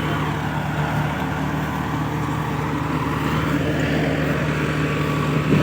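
Kubota 4x4 tractor's diesel engine running at a steady speed, an even hum.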